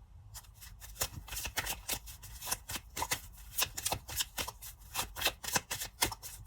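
Tarot cards being shuffled by hand, a rapid irregular flutter of card clicks that starts about half a second in and keeps going.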